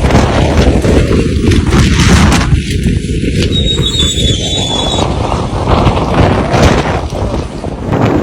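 Storm wind buffeting a phone microphone: a loud, heavy rumble that surges and dips with the gusts.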